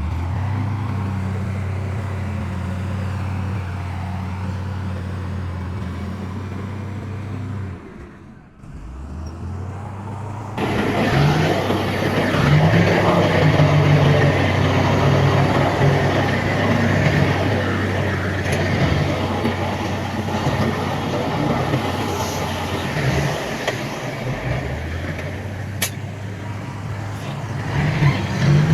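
Heavy diesel engines of dump trucks and a bulldozer running with a steady low drone. About ten seconds in, the sound jumps louder and rougher and stays that way.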